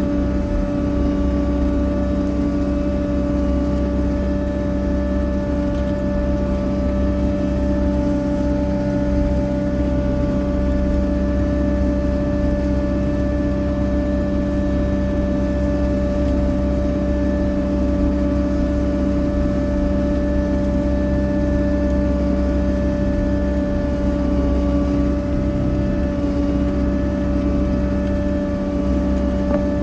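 An engine running steadily at a constant speed, an even multi-tone hum over a low rumble.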